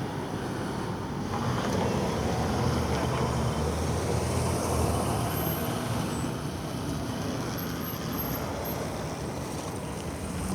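Road traffic: a steady low rumble of motor vehicles, swelling for a few seconds as one passes close and then easing off.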